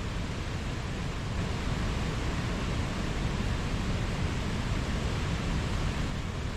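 Mountain stream rushing over rocks: a steady, even wash of flowing water with no breaks.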